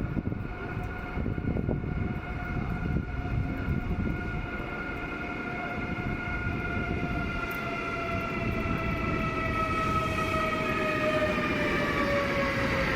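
Electric train slowing as it runs in, with a whine of several tones that falls slowly in pitch and grows louder over a low rumble.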